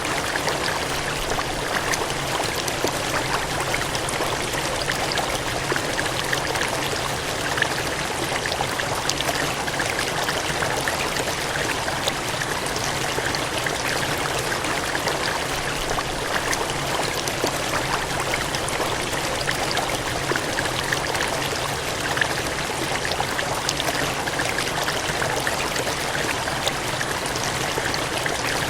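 Water gushing and cascading, a steady rushing splash with small spattering flecks throughout.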